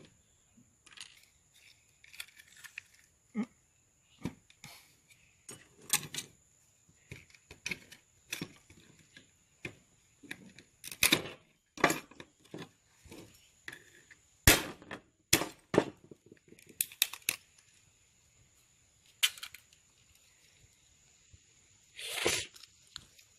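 Irregular sharp clicks, taps and knocks of small parts being handled and fitted, some louder than others, with a longer scraping rustle near the end. A faint steady high tone lies underneath.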